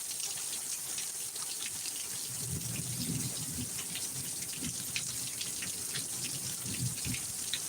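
Heavy rain pouring steadily with water running and splashing, scattered with the ticks of drops striking hard surfaces. A low rumble comes and goes in the middle.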